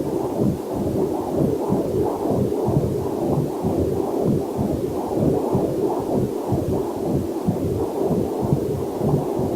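Fetal heartbeat through a fetal Doppler monitor: a fast, even whooshing pulse, about two beats a second. A faint waterfall is mixed in underneath.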